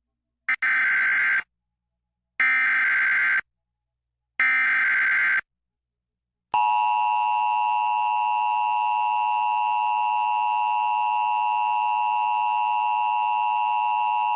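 Emergency Alert System header for a tornado warning: three short bursts of warbling SAME data tones, each about a second long, then about six and a half seconds in the steady two-tone EAS attention signal, held for about eight seconds.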